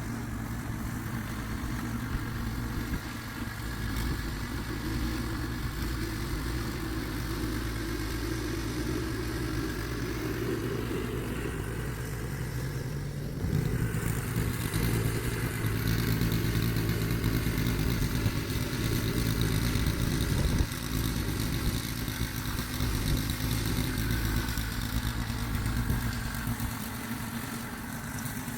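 Snowblower's small engine running steadily while clearing snow, getting louder about halfway through.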